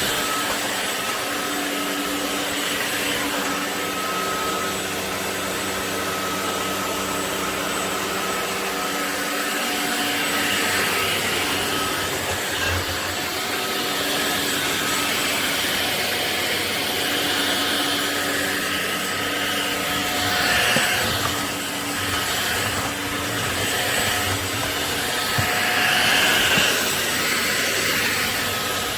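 Ultenic U16 Flex cordless stick vacuum running: a steady motor whine over rushing air, with the airflow swelling briefly a couple of times.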